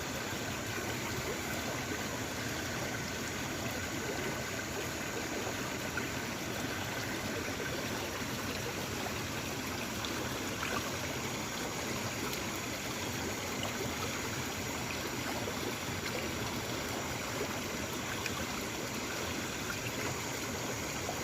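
Small river flowing, a steady rush of water with faint steady high tones above it.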